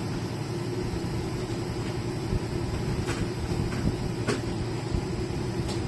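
New American Home 1.5 hp inverter air conditioner running steadily on its first test, a continuous hum with a held low tone. A few light clicks sound over it.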